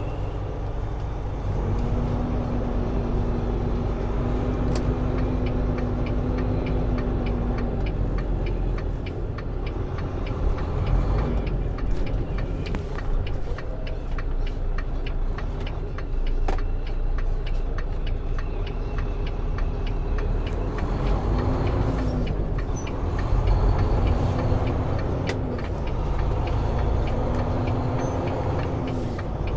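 Semi truck's diesel engine running with a steady low rumble, heard from inside the cab. Its note rises and falls a few times in the second half.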